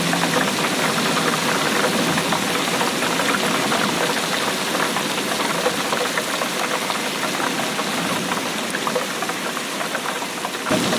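Steady rain, a dense patter of many small drops. Just before the end the sound changes abruptly and a deeper rumble comes in.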